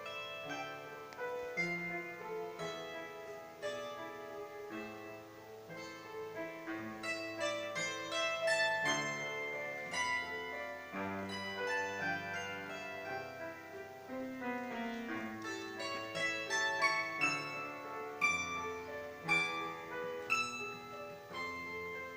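Bandura played solo: a plucked melody in the treble over ringing bass notes, each note decaying after it is struck.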